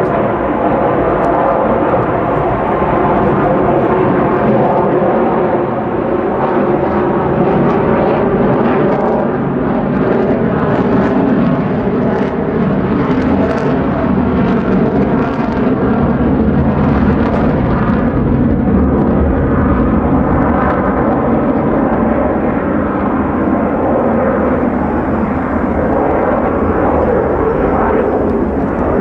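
Lockheed Martin F-35A Lightning II jet fighter in flight, its Pratt & Whitney F135 afterburning turbofan giving a loud, steady jet noise that holds for the whole stretch.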